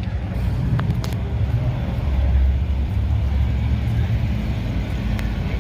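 Car engine running with a low rumble that grows louder about two seconds in and eases back later on.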